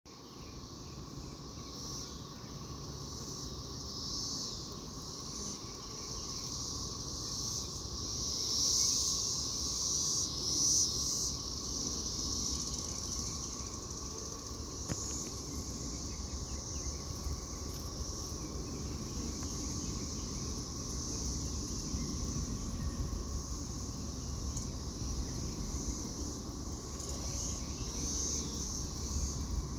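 High, steady cicada buzz, swelling louder for a few seconds about a third of the way in, over a low rumble.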